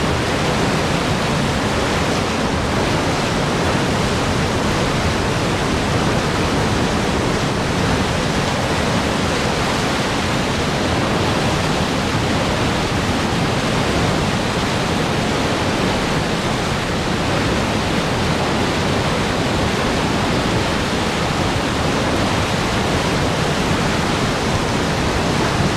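Powerful rushing water, a loud steady roar of fast-flowing water with no breaks or changes.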